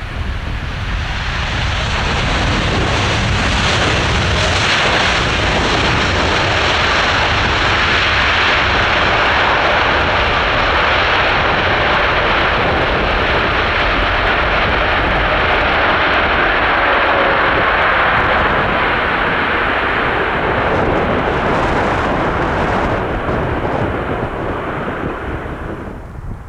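Boeing 777-300ER jetliner flying past on its landing approach: the steady rushing roar of its GE90 turbofan engines swells over the first couple of seconds, holds, and fades near the end. Gusty wind rumbles on the microphone underneath.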